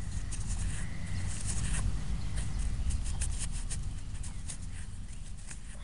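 Irregular crackling and rustling of dirt and grass being handled close to the microphone while a freshly dug coin is picked out of the soil, over a low rumble.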